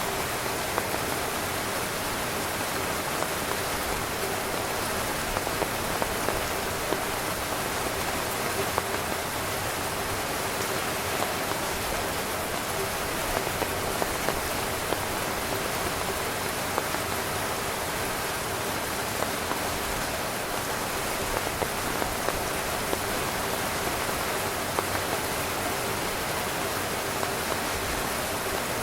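Steady rain falling on a tent, with a constant hiss and many small drop patters on the fabric.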